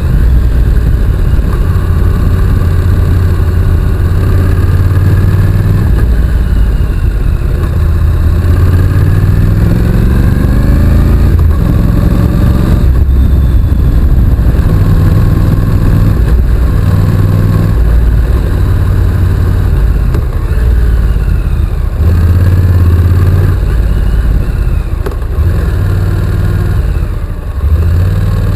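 Honda NC750X's parallel-twin engine running under way, its pitch climbing as it accelerates and dropping at gear changes, with a heavy low rumble.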